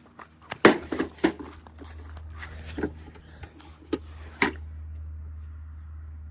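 Clicks and knocks of a plastic toy washing machine being handled, the loudest under a second in. A steady low hum starts with that click and keeps going.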